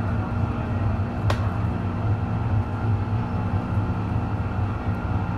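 MTR Disneyland Resort Line M-Train under way, heard from inside its cab: a steady low rumble of wheels and running gear on the track, with one sharp click about a second in.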